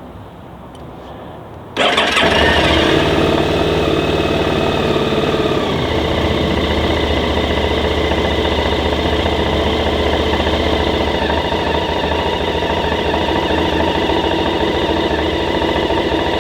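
QJMotor SVT 650X motorcycle engine starting about two seconds in, then running at a steady idle.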